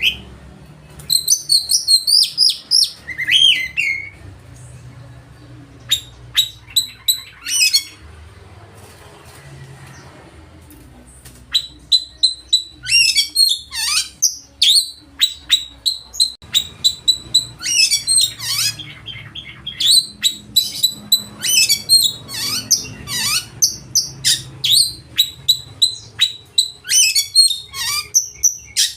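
Oriental magpie-robin (kacer) singing loudly in runs of fast, varied chirps and trills, its full repertoire of mimicked song, with a lull of a few seconds about a third of the way in.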